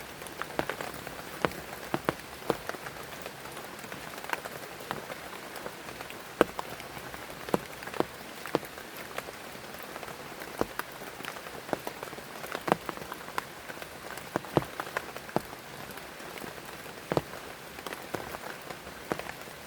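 Heavy rain falling steadily, with frequent large drops striking a surface in sharp, irregular taps.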